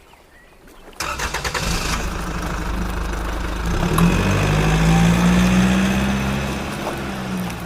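An engine starts about a second in after a brief hush, then runs steadily, its pitch rising slightly through the middle and easing back near the end.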